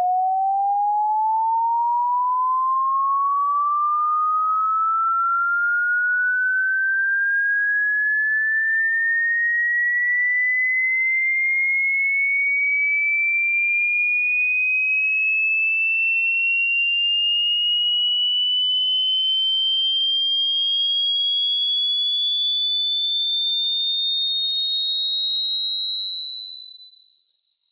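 A pure electronic sine tone sweeping slowly and smoothly upward in pitch without a break, from a middle pitch to a high, thin one, at a steady level.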